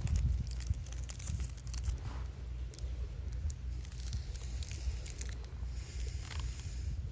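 Wood campfire crackling with scattered sharp pops and snaps, and a hiss about six seconds in, over a low steady rumble.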